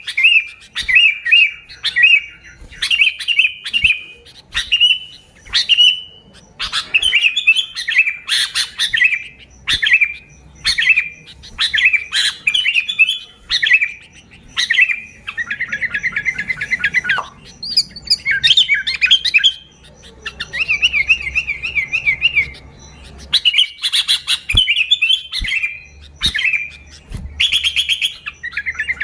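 Sooty-headed bulbul (kutilang) singing: short bubbly phrases repeated about once a second, twice broken by longer rapid chattering trills.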